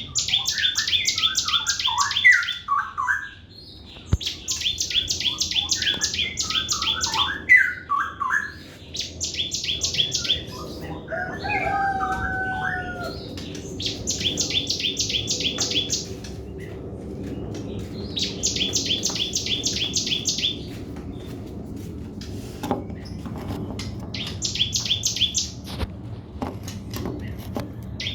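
A sogon bird singing its fast 'trotol' song: bursts of rapid, high, evenly repeated notes lasting two to three seconds each, repeated about every four seconds. Lower, jumbled chirps come between the first few bursts, and a pair of drawn-out falling whistles comes near the middle.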